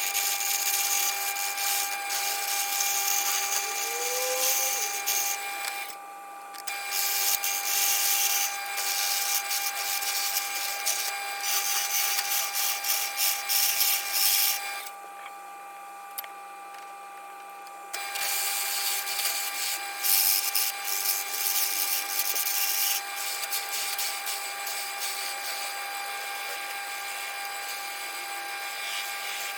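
A power tool's motor runs with a steady whine while a small spindle of scrap pine is shaped, the hissing cut coming and going. The cutting stops for about three seconds midway while the motor keeps running, then resumes.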